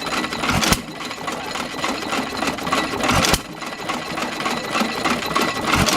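A 1922 Hercules Model G hit-and-miss engine running with no load: a fast, steady mechanical clatter, broken by three loud beats about two and a half seconds apart as the engine fires between coasting strokes.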